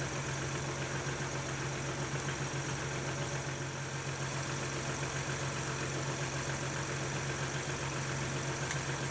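Kubota L3901 tractor's three-cylinder diesel engine idling steadily.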